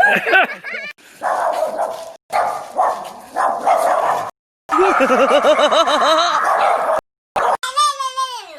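Dog barking and yipping in several short clips cut hard one after another; near the end, a single dog whine that falls in pitch.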